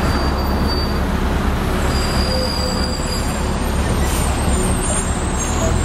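Loud, steady rumble of city traffic with heavy vehicles such as buses, with a few faint high whines over it.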